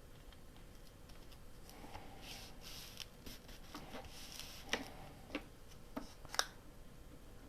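Quiet handling of paper at a craft table: soft rustling as paper is moved and pressed down, then a few sharp light clicks and taps, the last and loudest one near the end.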